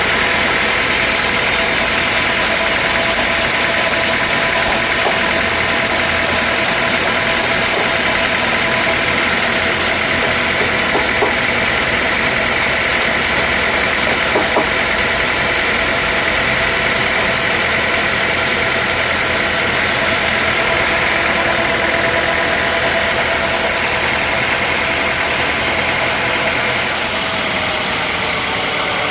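Sawmill machinery running steadily, a loud even mechanical noise with a constant whine.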